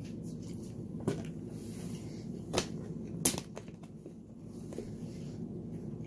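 A person chewing a mouthful of pasta with the mouth closed, with three sharp wet mouth clicks about one, two and a half and three seconds in, the last the loudest, over a steady low hum.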